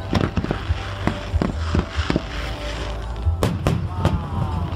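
Aerial fireworks bursting in quick succession, a string of sharp bangs with the loudest ones about three and a half seconds in, over a steady low rumble and background music.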